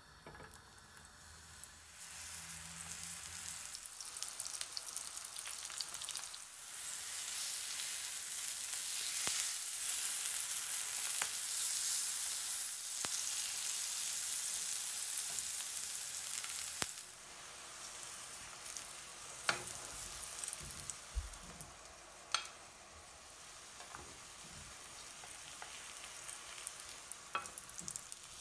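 Aubergine slices sizzling in oil on a grill pan. The sizzle builds over the first few seconds, drops to a softer hiss partway through, and a few sharp clicks come in the later part.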